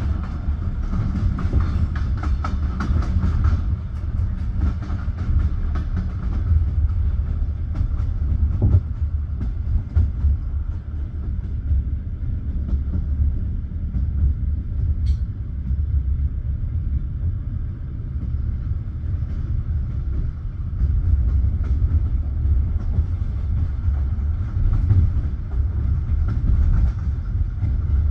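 Passenger train running, heard from inside the carriage: a steady low rumble with the wheels clicking over rail joints.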